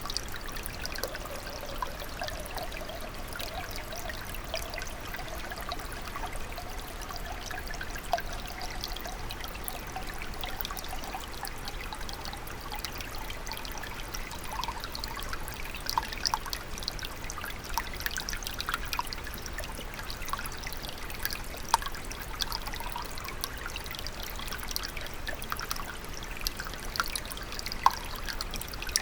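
Small clear stream trickling and burbling, with many short splashes and drips.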